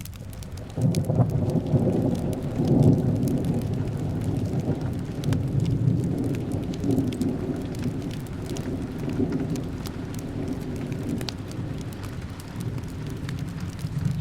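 Steady rain with a long roll of thunder that breaks in about a second in, is loudest over the next two seconds, then rumbles on and slowly fades. Scattered sharp crackles from the fireplace run throughout.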